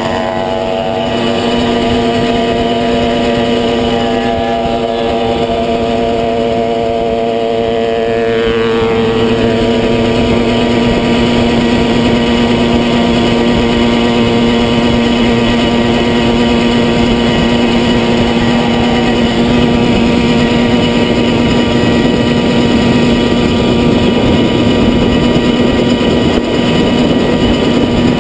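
Motorcycle engine running at a steady pace under way, with rushing air noise. Its note shifts about a second in and again about nine seconds in.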